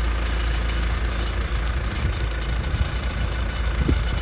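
John Deere 310D backhoe's diesel engine running steadily, a deep rumble with some uneven low thuds in the second half.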